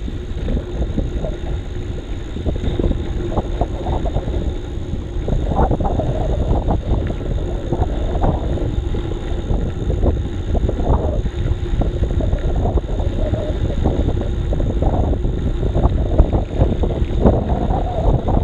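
Riding noise picked up by an action camera on a moving bicycle: wind rushing over the microphone, with frequent small knocks and rattles from the bike over the rough track.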